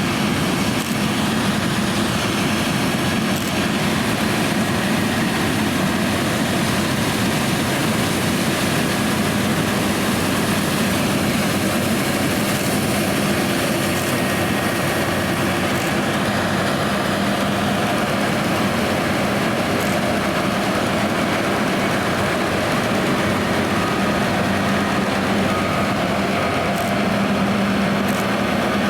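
John Deere X9 1100 combine harvester running steadily while combining oilseed rape: a constant engine and machinery drone with a steady low hum and no change in pace.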